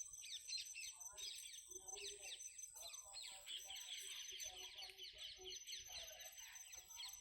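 A flock of small birds chirping in quick, dense trills, growing thicker about halfway through.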